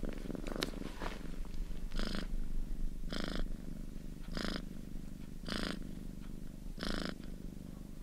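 Domestic cat purring steadily, swelling with each breath about once every second and a bit.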